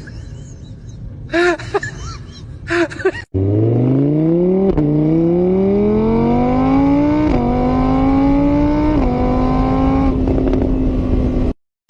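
An engine accelerating hard, its pitch climbing steadily through the gears with a small step at each shift, then cutting off abruptly. A few short voice-like sounds come before it in the first three seconds.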